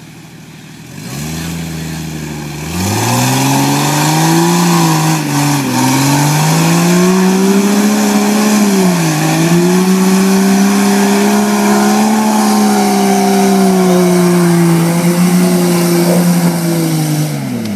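A 1993 Jeep Cherokee's 4.0-litre High Output straight-six is revved hard under load in mud. The revs pick up about a second in, climb higher near 3 s, dip twice briefly and are held high until they drop off at the very end.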